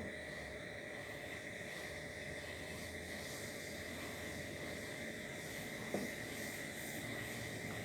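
Steady outdoor background with a constant high insect drone, and two short knocks: one at the very start, one about six seconds in.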